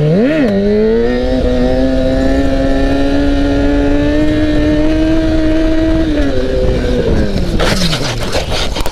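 Motorcycle engine blipped once, then held at high revs for several seconds with the pitch creeping up, before the revs fall away. As the revs drop near the end, a rapid run of sharp cracks sets in.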